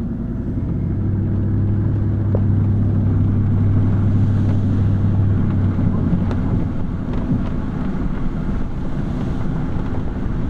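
Car driving on a wet road after heavy rain, heard from inside the car: a steady low engine hum with tyre noise, the hum easing off a little about six seconds in.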